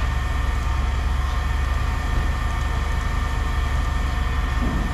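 A steady low mechanical rumble with faint steady tones above it, unchanging throughout.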